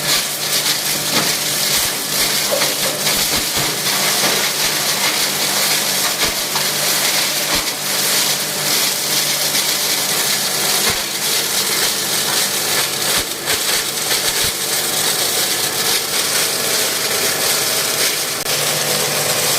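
Electric plastic shredder driven by a 5 hp three-phase motor, running and chopping plastic: a steady motor hum under a constant rattling clatter of plastic pieces, with scattered sharp cracks.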